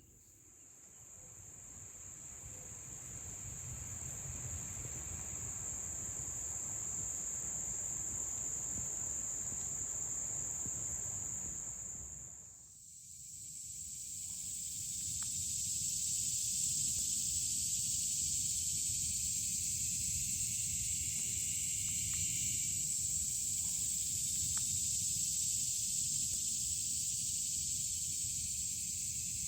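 Steady high-pitched insect chorus with a low rumble beneath. It fades in, dips briefly about halfway through, and comes back fuller.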